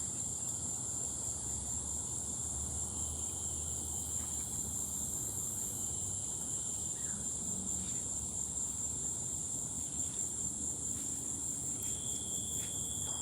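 Steady high-pitched chorus of insects trilling without a break, with a second, lower steady buzz joining near the end.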